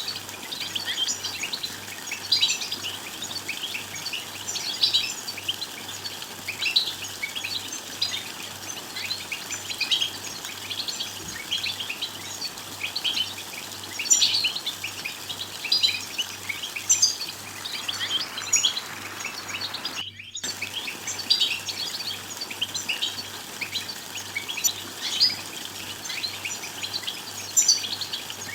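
European goldfinch calling and twittering: quick, bright chirps in a constant stream, broken by a brief gap about two-thirds of the way through.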